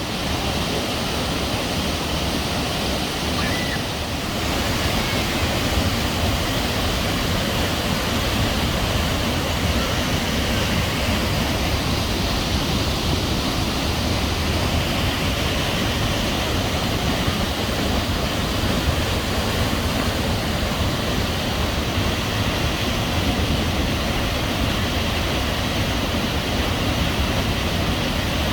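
Waterfall: the steady, loud rush of falling water, a little louder about four seconds in.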